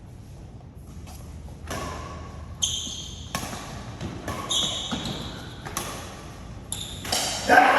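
Badminton rackets striking a shuttlecock back and forth in a rally. There are sharp smacks at irregular intervals of about a second, several with a brief high ring from the strings, and a louder hit near the end.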